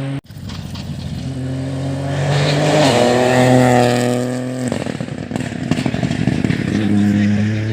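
Rally car engine at high revs, its note stepping up about three seconds in. The note then breaks into a run of sharp crackling pops for a couple of seconds, as when the throttle is lifted, before a steady engine note returns near the end.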